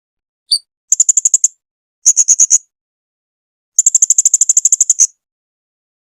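Blue-crowned hanging parrot (serindit) calling: a single short note, then three quick trains of high-pitched chips at about a dozen notes a second. The last train is the longest, about a second and a half.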